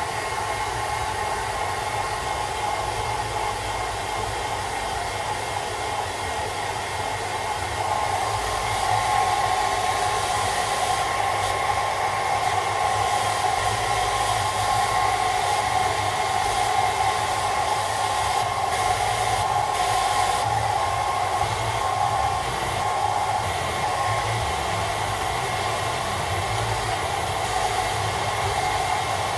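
Hairdryer running steadily: a rush of blown air with a steady motor whine, getting a little louder about eight seconds in and easing off again later.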